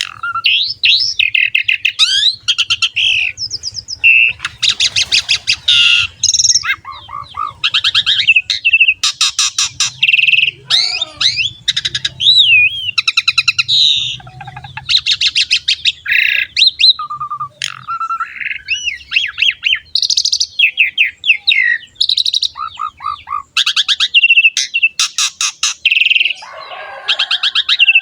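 Asian pied starling (jalak suren) in full song, singing without pause: a varied run of fast trills, whistled glides and harsh rattling notes.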